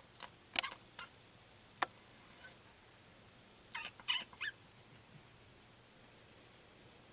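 Baby raccoons calling with short, high-pitched chirps: a few in the first two seconds, then another quick cluster about four seconds in.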